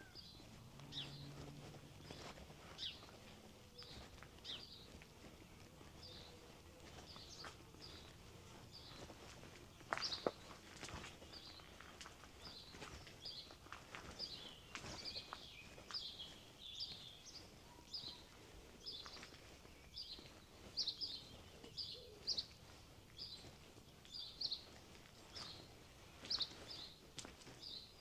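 A small bird gives a short chirp over and over, about one to two calls a second and more often in the second half, over faint outdoor background noise. The walker's footsteps are heard now and then, with a sharper knock about ten seconds in.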